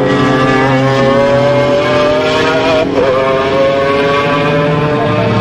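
A high-revving car engine accelerating hard, its pitch climbing steadily, with a short break about three seconds in before it climbs again.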